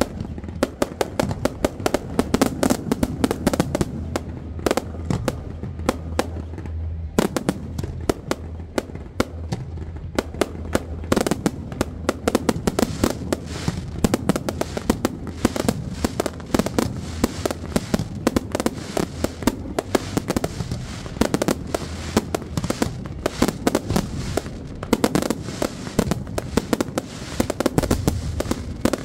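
Fireworks display fired at close range: a dense, continuous barrage of launches, bangs and crackles, many reports a second.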